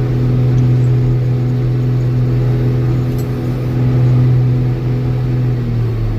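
Old Steiger tractor's diesel engine running steadily under load with a deep, even hum, its pitch dropping slightly near the end.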